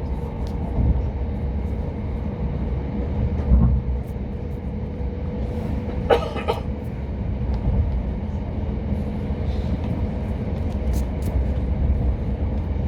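Inside a moving passenger train: the steady low rumble of the coach running on the track, with a faint steady whine over it. A short, sharp higher sound cuts in once, about six seconds in.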